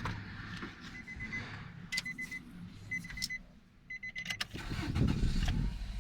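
A car's warning chime beeps in four short groups about a second apart, with scattered clicks. Then the Nissan Teana's QR25DE 2.5-litre inline-four cranks and starts near the end and settles into a steady idle.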